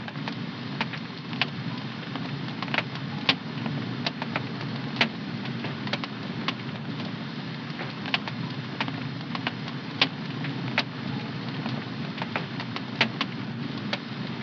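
Wood fire in a home fireplace crackling: irregular sharp pops, roughly one or two a second, over a steady low rumble of the burning fire.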